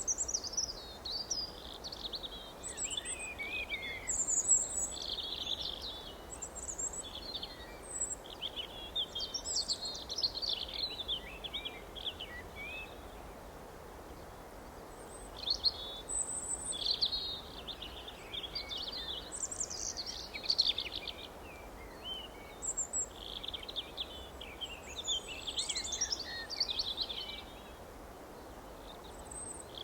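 Wild birds chirping and singing in clusters of rapid twittering phrases, with short lulls about halfway through and again near the end, over a steady background hiss.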